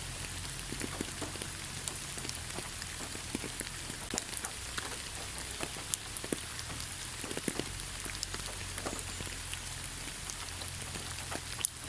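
Steady rain: a constant hiss with many separate drops striking close by at irregular moments, one sharper drop hit near the end.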